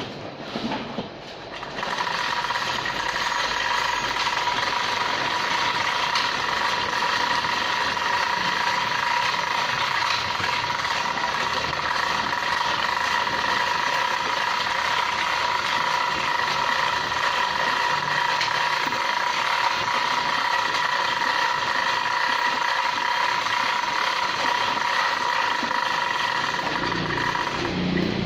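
Toyota Kijang Grand engine running steadily, with a steady high whine over it. The sound comes up sharply about two seconds in. The whine stops shortly before the end while the engine keeps running.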